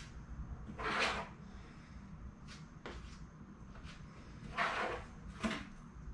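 Plastic spreader scraping body filler (Bondo) across a cracked car dashboard in a few separate strokes, the strongest about a second in and twice near the end.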